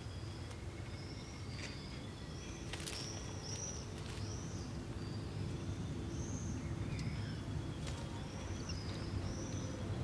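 A small bird's short high chirps, each rising then falling, repeated one or two times a second over a low steady rumble, with a couple of sharp clicks about two and three seconds in.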